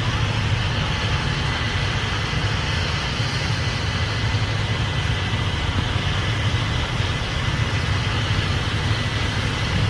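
Case IH Axial-Flow 8250 combine running steadily: a deep, even engine drone with a faint steady high whine over it.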